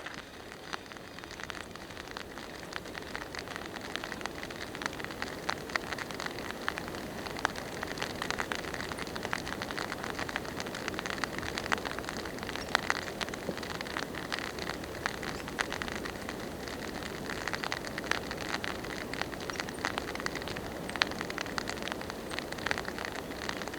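Steady rain falling in woodland: a dense hiss with many separate sharp drop hits.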